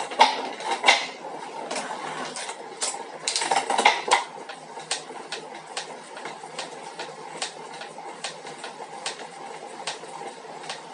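Elite Suito direct-drive smart trainer knocking as it runs: a few loud knocks and a clatter in the first four seconds, then a regular knock a little more than once a second. The knocking is a defect of this trainer, which the owner says was fixed in later 2021 production.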